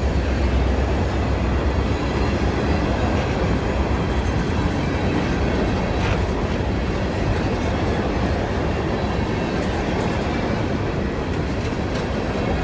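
Empty CSX open-top hopper cars of a rock train rolling past at a steady speed: a continuous rumble of steel wheels on the rail, with a few sharp clicks.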